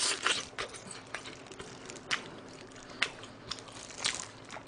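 Crunching and chewing of crispy fried chicken close to the microphone: scattered sharp crackles as the coating breaks between the teeth.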